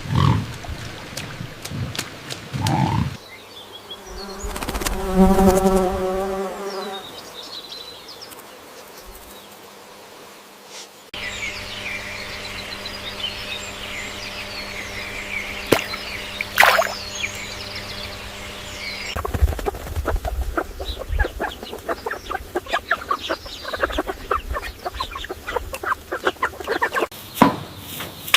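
A run of short animal sound clips, led by a buzzing insect. Low calls open it, then comes the buzz, then high chirping, then a stretch of rapid, dense clicking.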